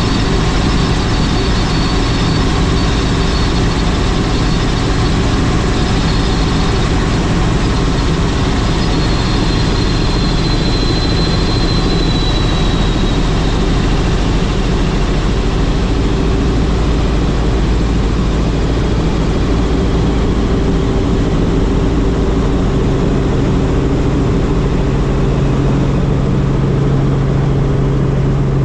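Helicopter engine and rotor running steadily: a constant loud drone with steady low tones and a faint high whine.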